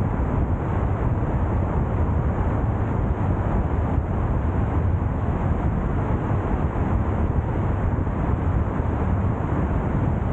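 Steady low rumble of a car being driven, tyre and engine noise with no distinct events.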